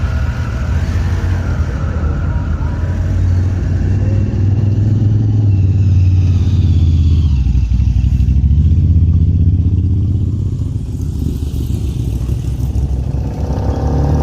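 Motorcycle engine running, swelling in level through the middle and easing off after.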